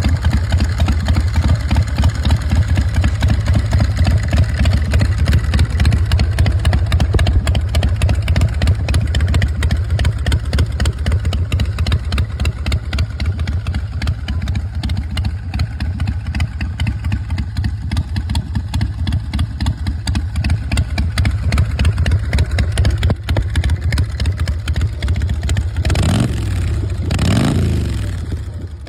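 Custom chopper's Screamin' Eagle 103 cubic-inch V-twin engine running steadily, then revved up and back down twice near the end.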